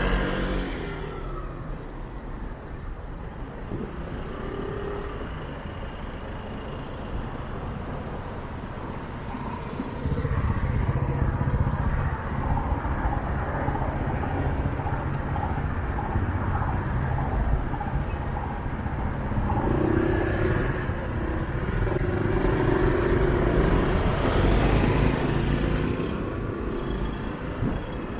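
City street traffic: car and bus engines and tyres running past in a steady rumble that grows louder about ten seconds in and again a little past twenty seconds.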